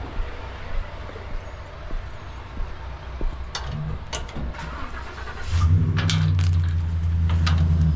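A vehicle engine running at idle, with metallic clicks and clanks, then about five and a half seconds in it steps up to a louder, steady, higher-speed run.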